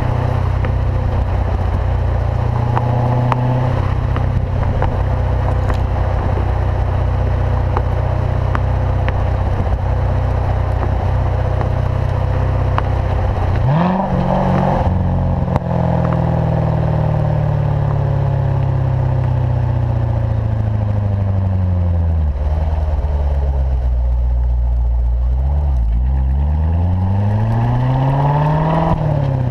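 2014 Corvette Stingray's 6.2-litre V8 through its performance exhaust, driven at light load: a steady drone, a quick rev about halfway through, then revs falling slowly for several seconds and rising again under gentle acceleration near the end.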